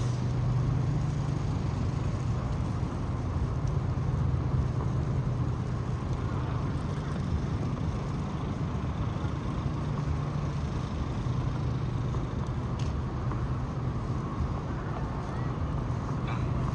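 Street traffic noise: a steady low engine hum from motor vehicles with an even wash of road noise.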